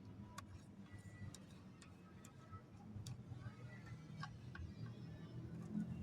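Faint, sparse light clicks and taps of small dry snack-mix pieces being picked up and set down while sorting, coming irregularly about two a second, some with a brief faint ring, over a low steady hum.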